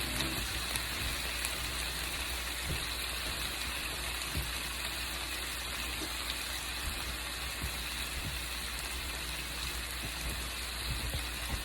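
Chicken skewers sizzling steadily on a hot grill, an even hiss with a few faint ticks.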